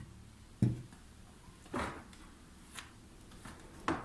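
A few short knocks and handling noises from hand work on a bicycle rear hub, as loose steel ball bearings are set one by one into the greased bearing cup. The first knock, about half a second in, is the loudest.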